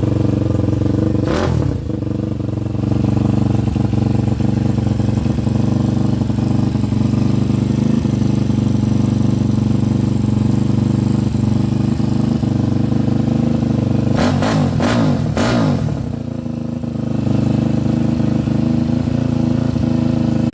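Daytona 212 Anima 4V single-cylinder small engine running through a homemade straight, open 1 3/8-inch loop exhaust. It idles steadily, with a quick blip of the throttle about a second in and a short burst of quick revs about fourteen seconds in.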